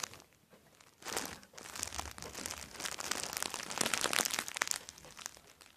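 Crinkling and crackling of plastic as a squishy toy is handled and squeezed, starting about a second in and easing off near the end.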